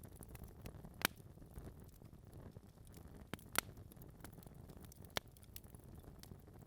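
Wood fire burning in a fireplace: a low steady rumble from the flames with sharp crackles and pops from the burning logs, the loudest about a second in and twice around three and a half seconds.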